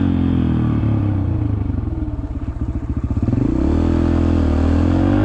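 Yamaha TT-R125's single-cylinder four-stroke engine running while being ridden. About two seconds in, the throttle eases and the engine drops to a low, uneven chug. It picks back up about a second and a half later.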